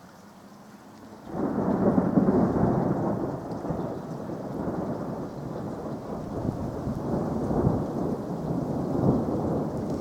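Thunder: quiet at first, then a loud clap about a second in that breaks into a long rolling rumble, swelling and fading.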